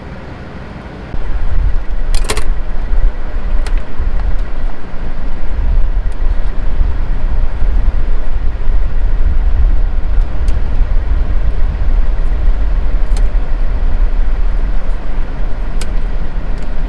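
Truck engine idling with a steady low rumble that comes in suddenly about a second in, with a few sharp clicks over it.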